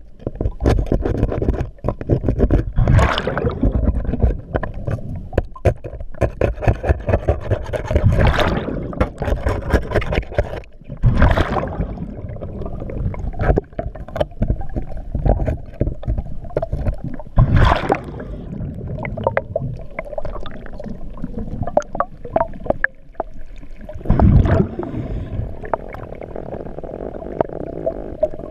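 Underwater sound of a scuba diver's regulator, with a rush of exhaled bubbles about every five or six seconds over a steady crackling and clicking and a low rumble.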